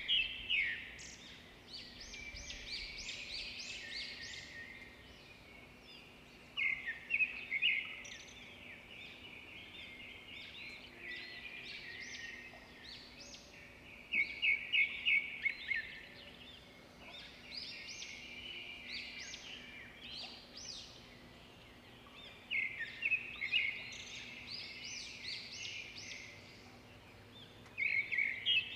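Songbird singing a short phrase of rapid chirping notes about every seven seconds, five times, with softer twittering between the phrases.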